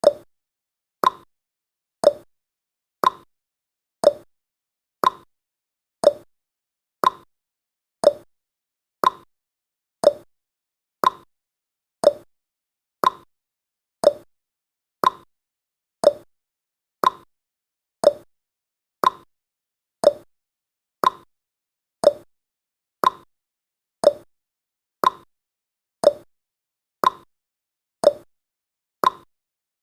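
Countdown timer tick sound effect: a short, sharp tick once every second, evenly spaced, with silence between the ticks.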